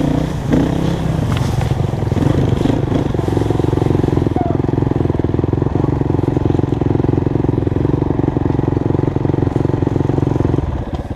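Dirt bike engine running at a steady throttle, easing off near the end.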